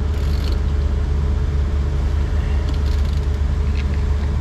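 Heavy truck diesel engine idling steadily in a low hum, with a few light metallic clicks and scrapes of hand tools on a brake slack adjuster: near the start, around the middle and near the end.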